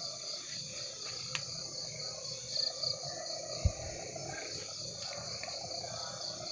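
Crickets chirping steadily in a high, pulsing trill, with one short low thump a little past the middle.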